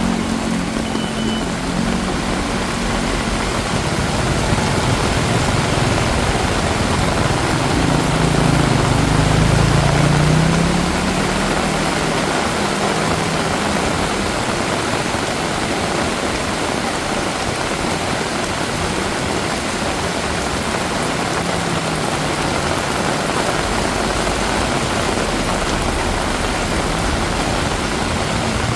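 Heavy rain falling steadily. A motor vehicle's engine runs close by in the first ten seconds, loudest about nine seconds in, then fades, leaving only the rain.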